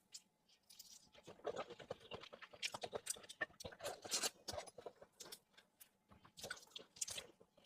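Soft chewing and wet mouth sounds of someone eating seafood: a run of irregular small clicks and crackles.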